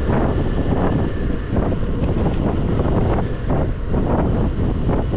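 Scooter ride with wind buffeting the helmet-mounted microphone in uneven gusts over the steady noise of the engine and road.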